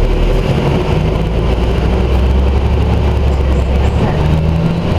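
Scania Omnidekka double-decker bus's diesel engine running, a deep steady drone whose pitch steps up about four seconds in.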